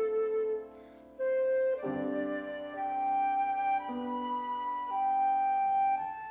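Flute playing a slow melody of long held notes with vibrato, over piano accompaniment. A short pause comes about a second in, then the melody resumes with new chords below it.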